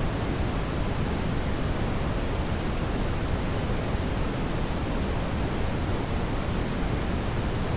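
Steady brown noise: an even, unchanging rushing hiss weighted heavily toward the low end, with no other sounds.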